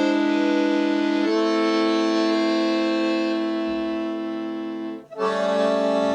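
Accordion playing held chords in a Russian folk-song arrangement. The chord changes about a second in, fades a little, and breaks off briefly near the end before a new chord sounds.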